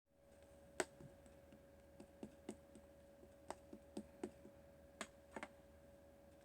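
Faint, irregularly spaced clicks and taps, about a dozen, the sharpest a little under a second in, over a steady faint hum.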